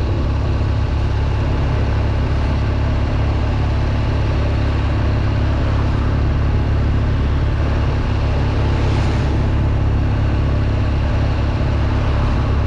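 Motorcycle boxer-twin engine of a BMW R nineT running steadily at a constant cruise, heard from the rider's seat, with a steady rush of wind and road noise.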